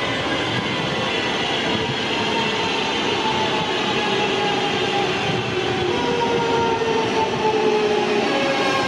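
West Midlands Railway multiple unit running through the station and slowing, with a rumble of wheels on rails and a whine that falls slowly in pitch.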